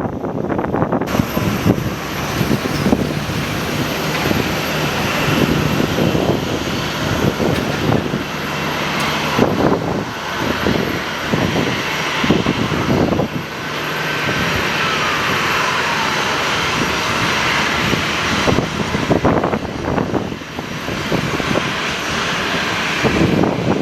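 Aircraft engines passing at an airport, with a whine that falls in pitch about halfway through, mixed with gusty wind buffeting the microphone.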